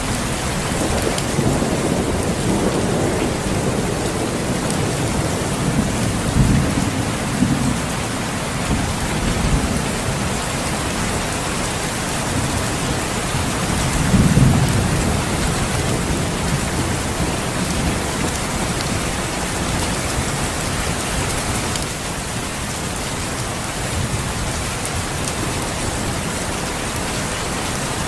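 Steady rain with low rolls of thunder rumbling in now and then, the loudest about halfway through.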